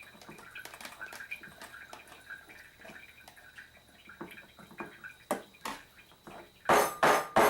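Sliced onions and beets being packed into jars: soft wet rustles and small clicks, then near the end a fast run of sharp knocks.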